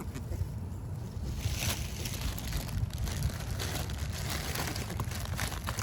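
Wind buffeting the microphone in a steady low rumble, with a few faint clicks over it.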